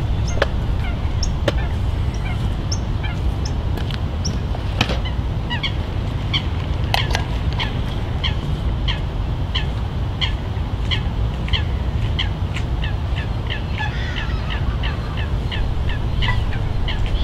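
A bird calling over and over in short, high, down-slurred notes, about two to three a second and quickening toward the end, over a steady low rumble of background noise.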